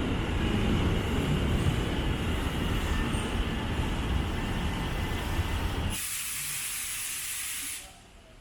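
Tokyu Den-en-toshi Line train rumbling along the platform, then a burst of pneumatic air hiss about six seconds in that lasts under two seconds and stops sharply.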